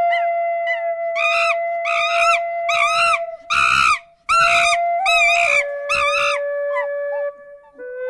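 An animal calling repeatedly, about nine short harsh calls at about two a second, over gentle flute music holding long notes that step down in pitch.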